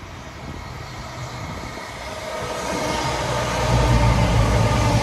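CrossCountry Voyager diesel multiple unit approaching and passing close by, its underfloor diesel engines making a low drone with steady tones above it that grows louder from about halfway in.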